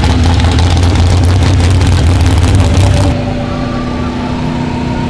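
Demolition derby car's engine running loud, dropping to a lower level about three seconds in.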